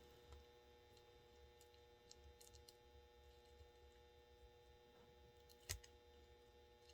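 Near silence: faint room tone with a steady low electrical hum and a few faint small clicks, one a little louder shortly before the end.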